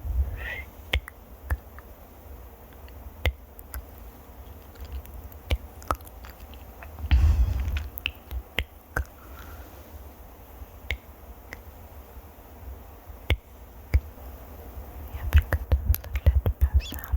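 Close-miked ASMR trigger sounds: scattered sharp clicks and taps, a brief low rubbing rumble about seven seconds in, and a quick run of clicks near the end.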